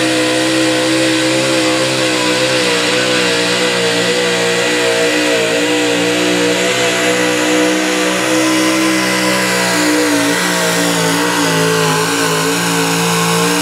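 Pulling pickup truck's engine held at high revs at full throttle under the load of the sled, running steady with small wavers in pitch.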